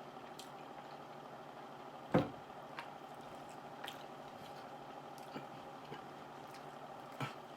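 Close-up wet chewing and mouth sounds of someone eating creamy chicken Alfredo pasta, with scattered small clicks and two louder knocks about two seconds in and near the end, over a faint steady hum.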